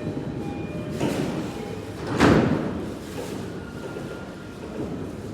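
Commuter train's sliding doors closing: a short door-warning chime sounds twice, then the doors shut with a loud thud about two seconds in.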